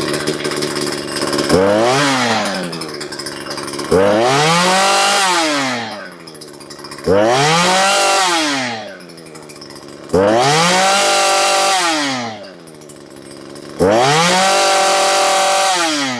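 Husqvarna 240 two-stroke chainsaw, running on a freshly fitted replacement engine with no bar and chain, revved up and let back down to idle five times, about every three seconds. The first rev is a short blip; the others are held briefly at high speed before falling away.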